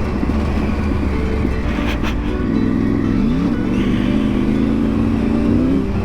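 Triumph 900 motorcycle engine under way, with wind and road noise. The engine pitch rises about halfway through as the bike accelerates, holds steady, then falls off near the end.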